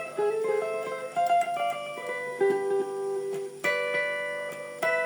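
Electric guitar played through a digital delay pedal: a run of single plucked notes, then two louder struck chords, the first a little past halfway through and the second near the end.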